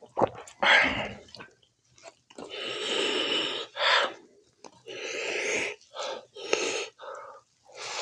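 Close-up eating sounds: wet chewing and lip smacking in irregular strokes, with a few longer noisy breaths of about a second each.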